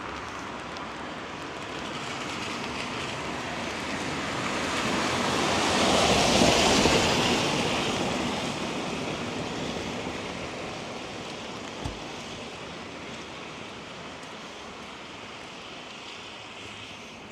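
A vehicle passing on a wet road: the hiss of its tyres through surface water swells to a peak about six seconds in, then slowly fades, over steady light rain.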